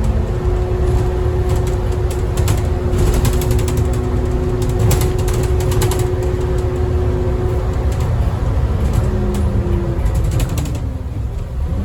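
Scania N230UD double-decker bus heard from inside, driving along: a steady engine and drivetrain drone with a held whine, and body rattles and clicks. Near the end the drone eases off briefly, then the pitch rises again as it pulls away.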